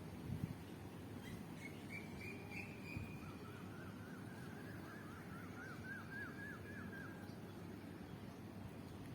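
Faint birdsong: a short high trill, then a long run of quick falling chirps that speed up, over a steady low rumble, with a couple of soft thumps.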